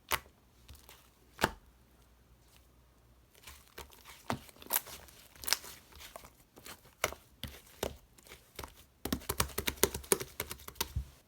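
Slime being pressed and stretched by hand, giving sharp pops and clicks. They come scattered at first, then in a fast crackling run near the end.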